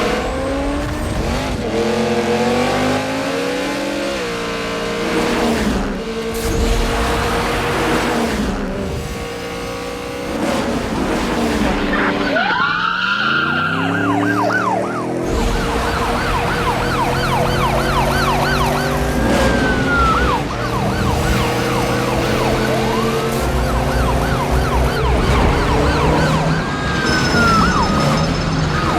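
Film soundtrack of a car chase: car engines revving up and down through gear changes. From about halfway in, police sirens wail and yelp over the engine noise.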